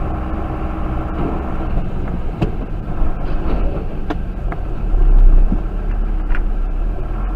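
A car's engine and road noise running steadily, with a few sharp clicks and a louder low rumble building about five seconds in.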